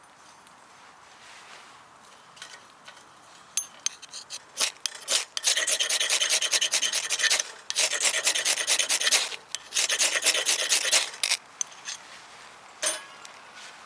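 Rapid rasping scraping: a few short scrapes, then three long runs of quick strokes from about five to eleven seconds in, and one more short scrape near the end.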